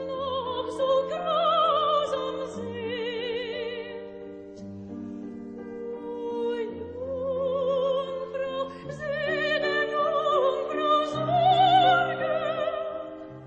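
Operatic singing: a single voice holding long notes with wide vibrato over sustained instrumental chords.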